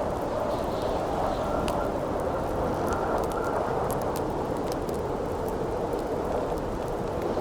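Wind howling steadily with a faint whistle, over a campfire crackling with scattered sharp pops.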